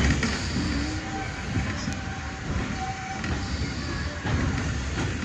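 Steady running noise of a steam-hauled train's carriage rolling along the rails, heard from on board.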